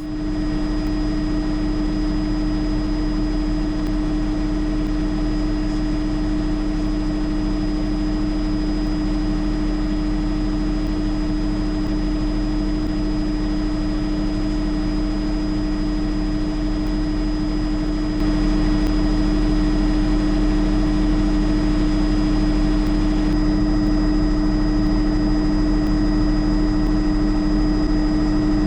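Cabin noise of a Bell JetRanger turbine helicopter in flight: a steady drone of engine and transmission with a constant whine over it, growing slightly louder about 18 seconds in.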